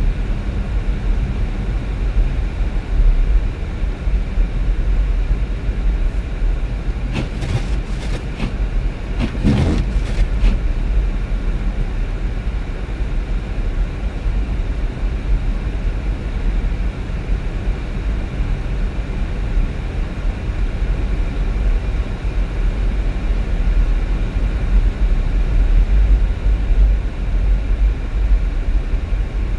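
Steady low rumble of a vehicle driving on the road, engine and tyre noise. A brief cluster of clicks and a knock comes about seven to ten seconds in.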